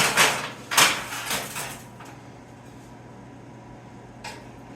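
Sheet metal clanking and rattling: a few sharp metallic knocks in the first two seconds as the panel is worked or handled, then a steady low hum with one light knock near the end.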